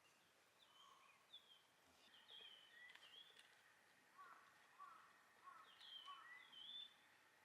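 Faint bird calls: many short chirps and quick sliding notes, several overlapping and busiest from about two seconds in, over a soft steady outdoor hiss.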